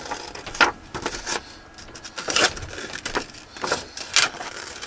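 Scissors cutting through paper: a string of irregular snips, some half a second apart and some a second apart.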